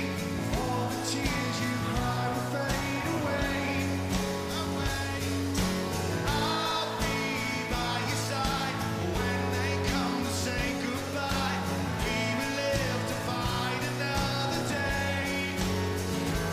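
Rock band playing live: a steady drum beat under guitars, with a singing voice.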